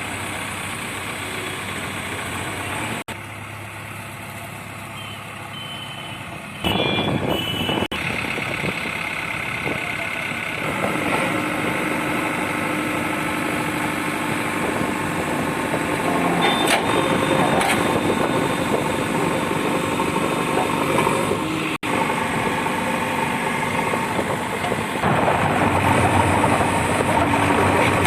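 Heavy diesel engines of a JCB 3DX backhoe loader and a Tata LPT 3118 truck running under load while the truck is brought out of mud. The engine sound steps up and down abruptly a few times and is loudest in the second half.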